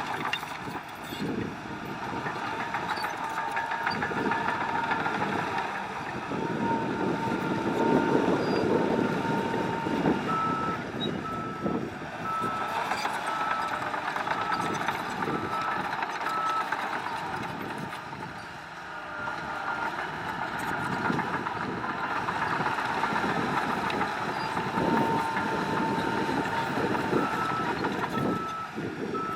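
Reversing alarm on heavy earthmoving machinery, beeping at an even pace in several spells, over diesel engines running under load with scattered knocks.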